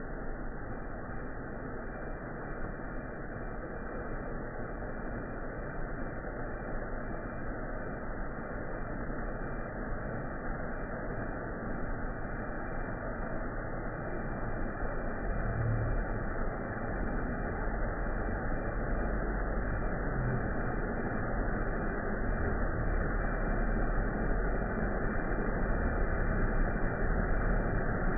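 Steady rushing noise of a waterfall, slowly growing louder, with a low rumble coming in during the second half.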